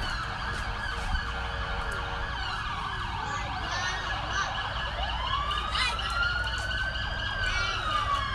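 Emergency-vehicle siren wailing, its pitch rising slowly to a peak and then falling, over a steady low rumble.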